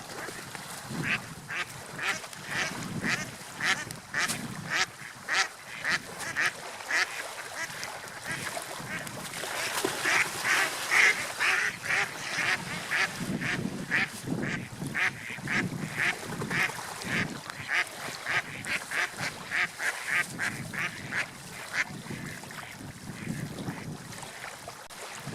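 Gulls calling in a long, rapid series of short repeated notes over a steady background hiss, loudest about halfway through.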